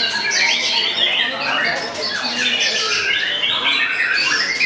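Dense chorus of caged songbirds singing at once, full of quick overlapping whistled and chirped phrases, with white-rumped shamas (murai batu) delivering rapid bursts of song.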